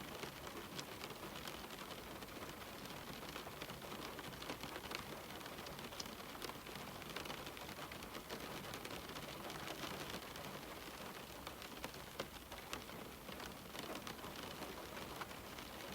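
Steady rain falling on a window pane, a continuous hiss with many small drop ticks scattered through it.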